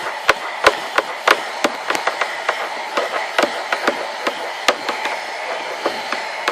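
Handheld hair dryer running steadily, blowing hot air onto a blouse, with frequent irregular sharp clicks or knocks over it.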